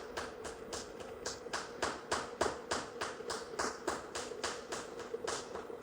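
Rapid, rhythmic smacks of buttock cheeks slapping together as a dancer twerks a booty clap, about four claps a second, steady and even.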